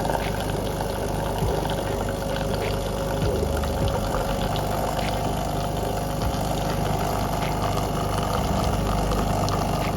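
De'Longhi Magnifica S espresso machine brewing: its pump runs with a steady hum as it pushes water through the coffee, fading out just after the end.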